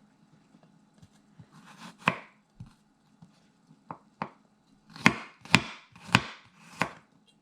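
Knife chopping garlic cloves on a cutting board: a few light, scattered cuts, then four heavier chops about half a second apart in the second half.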